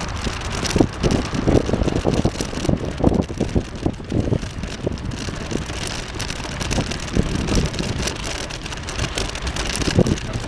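Wind buffeting an outdoor microphone: an irregular low rumble with thumps over a steady hiss.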